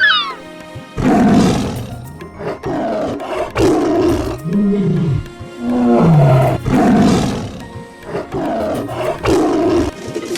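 A large animal calling repeatedly: a series of loud, rough calls, the first about a second in, some of them rising and falling in pitch, over background music.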